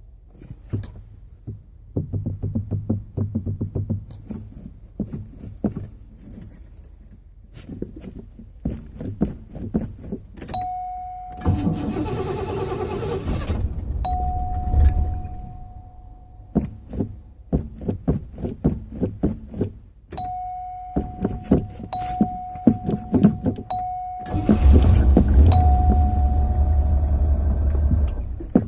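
Car starting from cold: two stretches of engine noise a few seconds each, the second louder, while a steady electronic warning tone from the car sounds with short breaks. Scattered clicks and rattles run between them.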